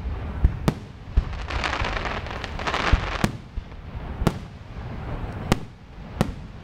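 Aerial firework shells bursting in a display: about eight sharp bangs spread irregularly through the clip, with a dense hissing crackle between them from about one and a half to three seconds in.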